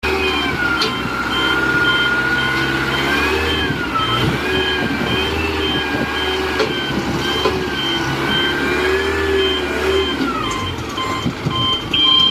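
A forklift reversing alarm beeping at a steady, regular rate over a running engine, with a wavering whine that slowly rises and falls. Near the end the engine hum drops back, and a second, lower beep joins in.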